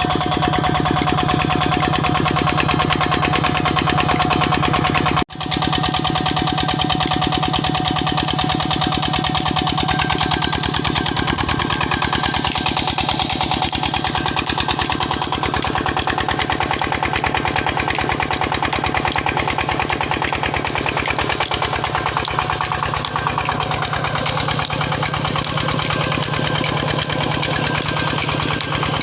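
Single-cylinder Petter-type diesel engine driving a tube-well pump, running steadily with an even, rapid beat of firing strokes. The sound breaks off abruptly for a split second about five seconds in.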